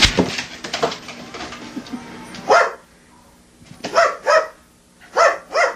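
A dog barking five times, single barks and quick pairs, starting about halfway in. Before the barks, a sharp click and a few light knocks.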